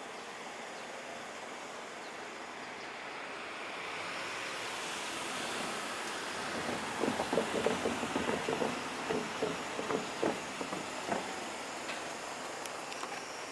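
Seibu 2000-series six-car electric train passing, its rumble building, then its wheels clattering over rail joints in irregular groups of knocks for a few seconds before fading.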